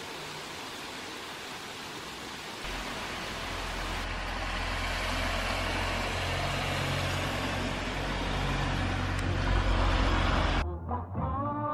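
Steady rain hiss. A low rumble comes in a few seconds in and swells louder for several seconds, then everything cuts off suddenly near the end as music starts.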